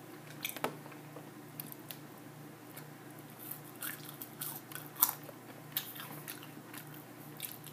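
A person chewing French fries close to the microphone: soft, irregular mouth clicks and small crunches over a faint steady hum.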